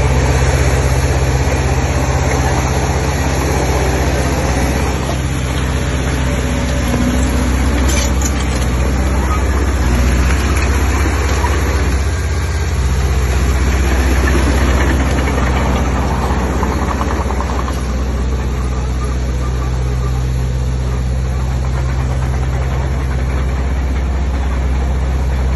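Heavy diesel engine of earthmoving machinery running steadily with a low drone, and a brief sharp click about eight seconds in.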